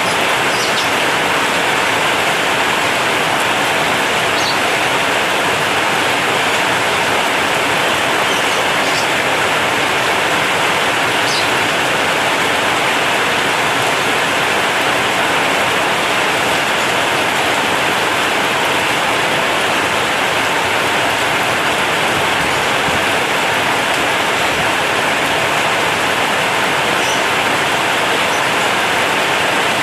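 Heavy rain drumming steadily on a corrugated zinc sheet roof, a dense even hiss.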